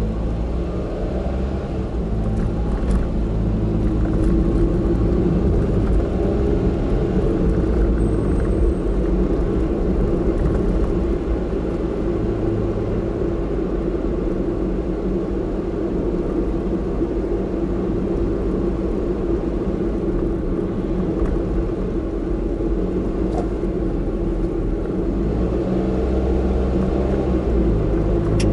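Car driving on the road, heard from inside the cabin: steady engine and tyre rumble, with the engine note rising a little near the start and again near the end.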